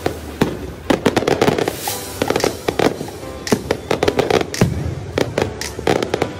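Fireworks going off: an irregular run of sharp bangs and crackles, some much louder than others, one after another.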